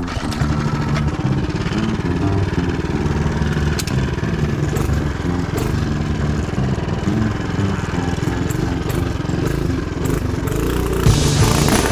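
Tillotson 212cc single-cylinder four-stroke engine on a mini bike, running under riding load with a Juggernaut torque converter, its pitch rising and falling as the throttle is worked. It gets louder near the end.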